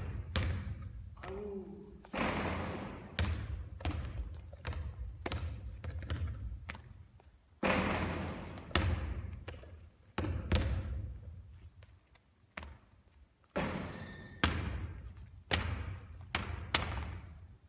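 Basketballs bouncing and thudding on a hard court during three-point shooting practice: a steady run of sharp thuds every second or so, each trailing off in an echo.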